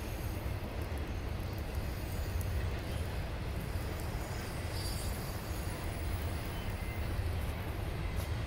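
Intermodal freight train's double-stack container cars rolling past, a steady low rumble of wheels on rail.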